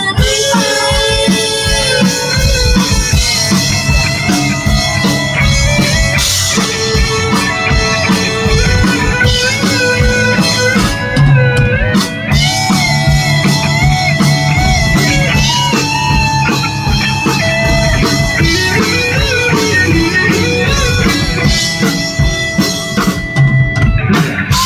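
Live rock band playing an instrumental passage: a guitar plays melodic lead lines over bass and a drum kit.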